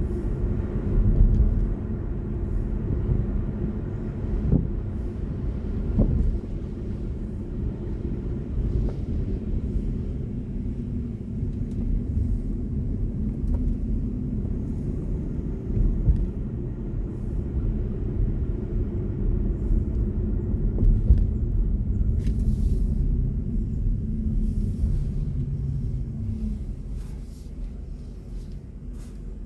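Steady low road and tyre rumble of a BMW i4 M50 electric car driving, with no engine note. It gets quieter a few seconds before the end.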